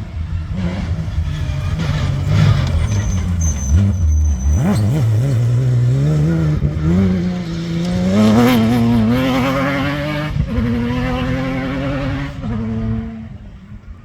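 Safari off-road racing vehicle's engine driving under load: it runs at low revs, dips briefly, then revs climb steadily and hold high with a wavering pitch before falling away near the end.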